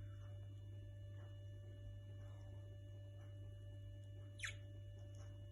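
A steady low hum, with one short, quick chirp from a bird sweeping downward in pitch about four and a half seconds in.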